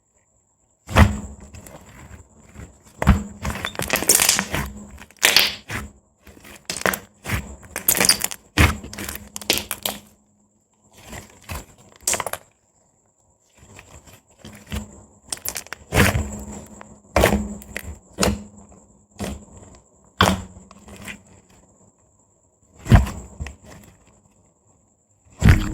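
Soft white slime pressed and stretched by fingers, giving irregular sharp pops and clicks as air bubbles burst, in uneven clusters broken by a few short silent pauses.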